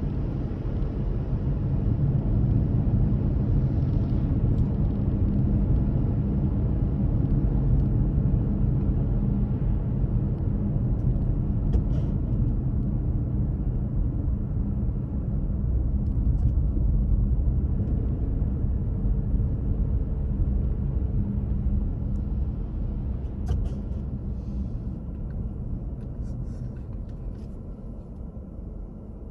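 A car driving along a road: a steady low rumble of engine and tyres that eases off over the last several seconds.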